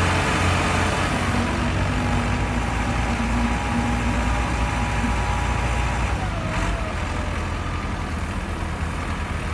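Tractor engine running steadily, heavy in the low end and even in level throughout.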